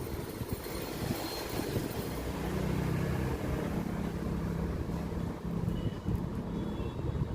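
Motorcycle engine running with a rapid low pulsing. A steadier low hum joins about two seconds in and fades near the end.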